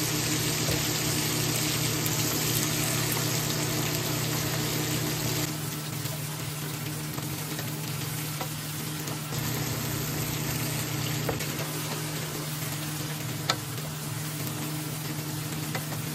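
Raw chicken pieces frying in oil with tomatoes and onion in a nonstick wok, a steady sizzle that is louder for the first five seconds or so after the chicken goes in, then settles a little lower. A bamboo spatula stirs the pan, with one sharp tap near the end.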